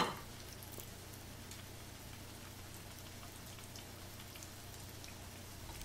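Chicken nuggets deep-frying in oil in a kadhai on a low-medium flame: a faint, steady sizzle with scattered small crackles. A brief louder sound comes at the very start.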